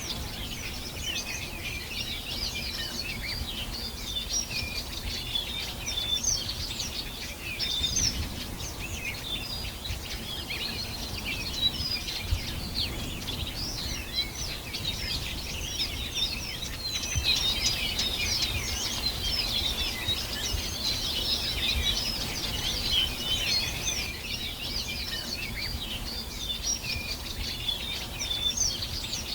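Many birds singing and chirping at once in a dense, continuous chorus of short high chirps and trills, over a low background rumble.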